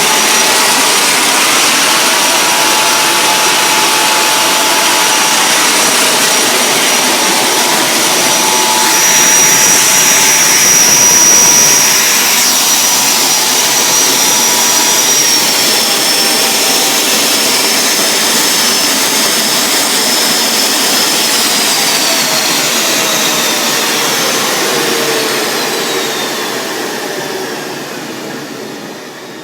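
Home-built turboprop made from a turbocharger with a free power turbine, running with a steady high whine and jet rush, briefly louder about ten seconds in. Over the last several seconds the whine falls in pitch and the noise dies away as the engine spools down.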